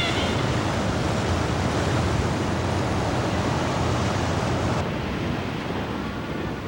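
Steady rushing wind and ocean surf noise with no distinct calls. The higher hiss drops away suddenly about five seconds in.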